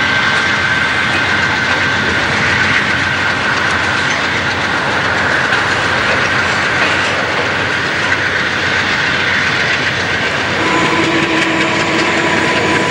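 Train cars rolling past at close range, wheels clicking over the rail joints in a steady, loud rumble.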